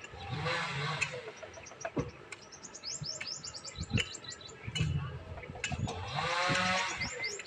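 Birds chirping in quick runs of short, high, rising chirps, with two louder pitched calls or voices, one near the start and one near the end.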